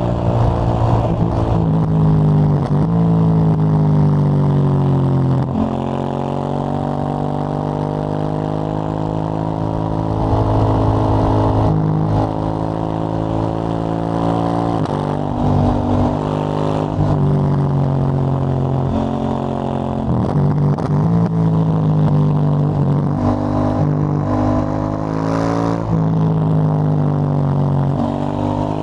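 2022 KTM 890 Duke GP's parallel-twin engine through a Dominator HP8 slip-on exhaust with dB-killer, ridden on the road: it repeatedly revs up and eases off, its pitch climbing and falling several times.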